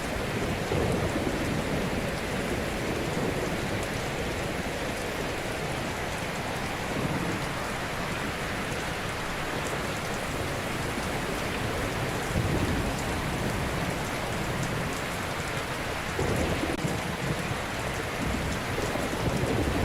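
Ocean surf: a steady wash of waves breaking gently, with low rumbling swells every few seconds as waves crash.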